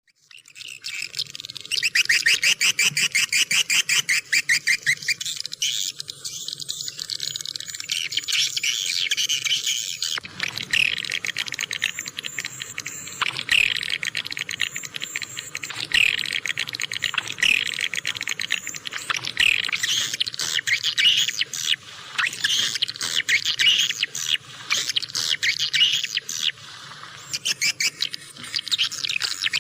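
Swiftlets twittering: a continuous dense chatter of rapid, high chirps and trills. This is a swiftlet call recording of the kind played to lure swiftlets to roost and nest.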